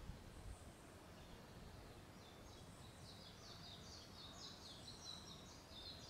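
A small bird singing faintly: a rapid run of short, high, falling notes that starts about two seconds in, over quiet forest background hiss.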